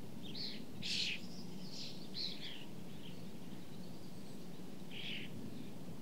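Birds calling in short, high notes, about half a dozen calls, the loudest about a second in and a last one near the end, over a steady low rumble.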